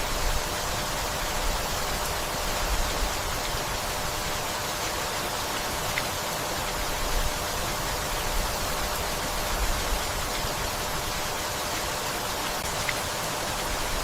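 Steady rain falling, an even hiss of many drops, with an uneven low rumble underneath.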